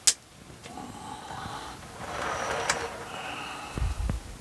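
A sharp click, then a long breathy exhale, then a couple of dull low bumps near the end.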